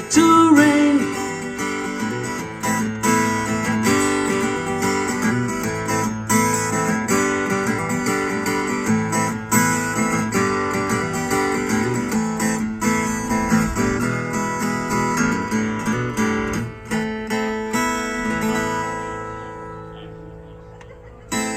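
Acoustic guitar strumming chords in the instrumental outro of a song. The sound fades out over the last few seconds.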